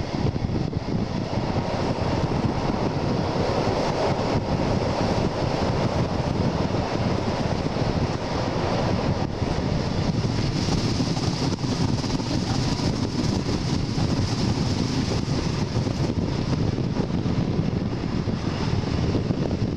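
Train running at speed, heard from an open window of a coach hauled by a DR/DB class 219 diesel locomotive: a steady rush of wind over the microphone mixed with the train's running noise.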